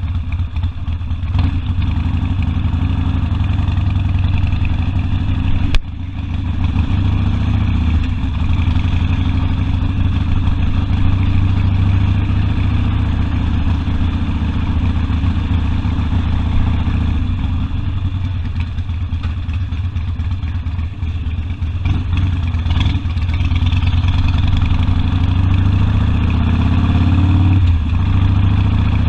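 Harley-Davidson Sportster's V-twin engine running under way, a steady low exhaust note, with the pitch climbing as it accelerates near the end. A single sharp click about six seconds in.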